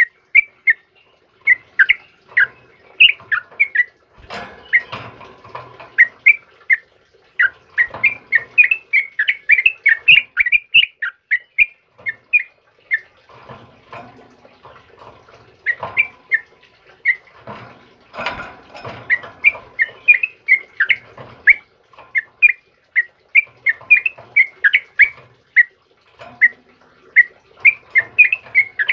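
A trucukan bulbul singing in bursts of quick, sharp chirping notes, phrase after phrase with short pauses. Softer rustling comes in between, about four seconds in and again past the middle.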